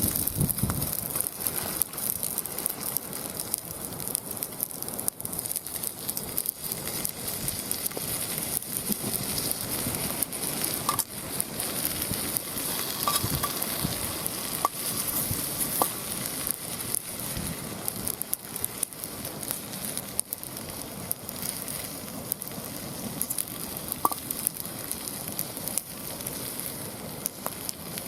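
Wood fire crackling steadily with dense small pops, and a few brief faint squeaks scattered through.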